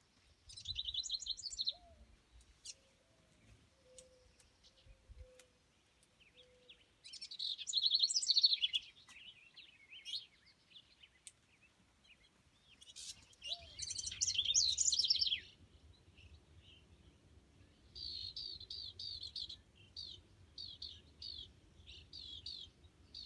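House wren singing: three rapid, jumbled song phrases a few seconds apart, then a string of short repeated notes near the end.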